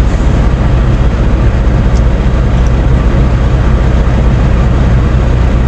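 Semi-truck's diesel engine idling: a steady low rumble.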